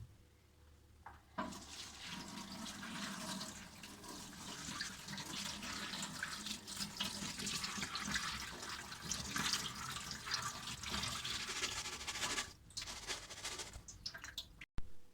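Kitchen tap running into the sink, starting about a second and a half in and shutting off near the end, followed by a few light knocks.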